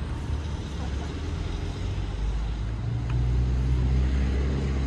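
Motor vehicle engine running, a low steady hum that grows louder about two seconds in.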